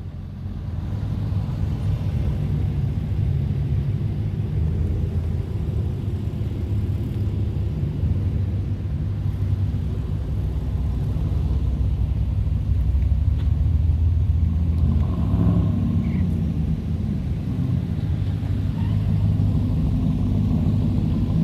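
A motor vehicle's engine running with a steady low rumble that swells slightly in the middle.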